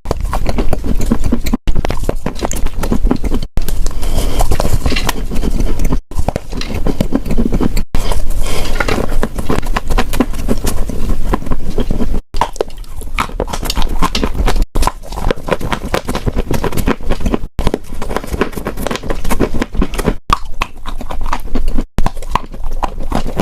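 Close-miked crunching and chewing of chalk: a dense run of crackly, brittle bites and grinding chews, broken by brief sudden drop-outs every couple of seconds.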